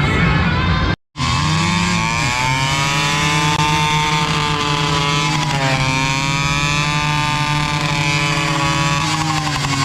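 Guitar music cut off abruptly about a second in, followed by a two-stroke motorcycle engine running steadily, its pitch wavering slightly up and down.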